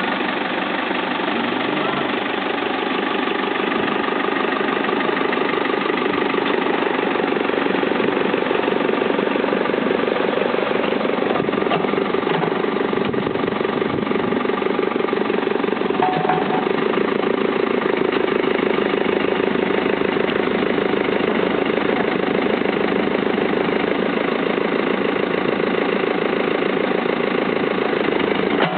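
Diesel engine of a CAT 432D backhoe loader running steadily.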